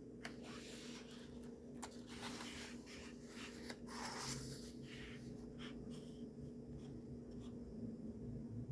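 Pages of a paperback coloring book being turned and handled: soft paper rustles and light taps over a faint steady hum.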